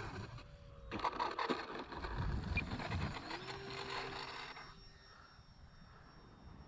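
A model plane touching down and rolling out, its wheels and airframe scraping and rattling for a few seconds. Near the end of the rollout the electric motor's whine rises and then holds steady as the throttle comes up.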